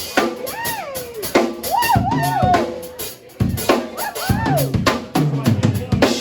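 Live band playing: a drum kit keeps the beat with kick, snare and rimshot hits, under a bass line and a lead melody that slides up and down in pitch.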